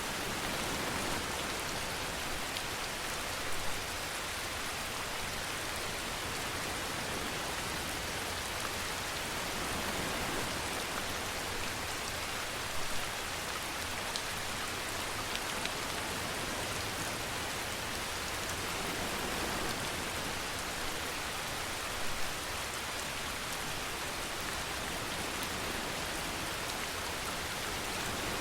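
Steady rainfall, an even hiss of rain falling on a surface. Three brief louder drops or taps stand out, about nine seconds apart.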